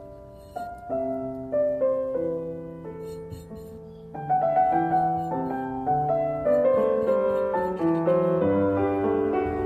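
Background piano music: a slow melody of held notes that grows fuller about four seconds in.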